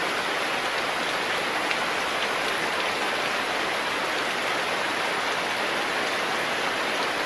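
Steady, even rain falling, a dense hiss with faint individual drop ticks.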